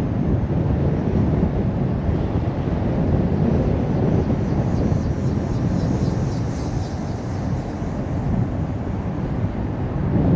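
Car driving at road speed: a steady low rumble of tyre, engine and wind noise.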